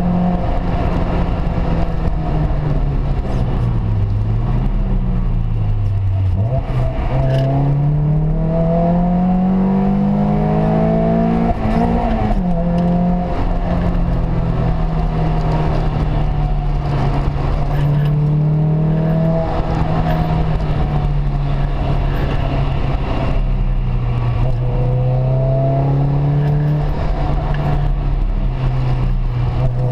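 Peugeot 206 RC's 2.0-litre four-cylinder engine under way. Its pitch falls over the first few seconds, climbs from about six seconds in to a peak near twelve seconds, then drops and runs fairly steady with slow rises and dips. A steady haze of road and tyre noise lies underneath.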